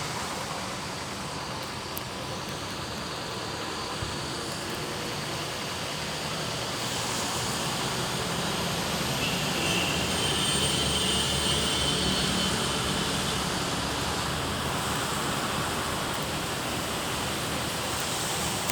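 Steady rush of heavy rain and wet-road traffic, swelling louder for a few seconds near the middle as a vehicle goes by.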